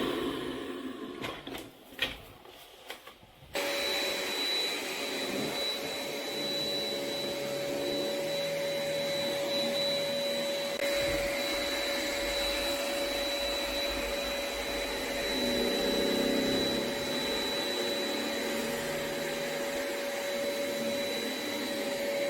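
ECOVACS DEEBOT X9 Pro Omni robot vacuum running: a steady whirr with a high, steady whine, coming in suddenly about three and a half seconds in after a few faint clicks.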